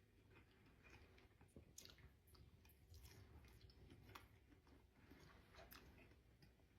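Faint close-up chewing of tender steak: soft, moist mouth clicks scattered irregularly throughout.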